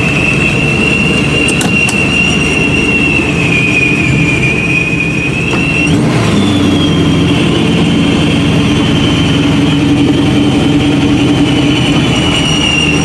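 Supercharged engine of a 1969 Camaro running at low speed, the supercharger giving a steady high whine over the engine's rumble. About six seconds in the whine jumps higher in pitch as the engine note changes.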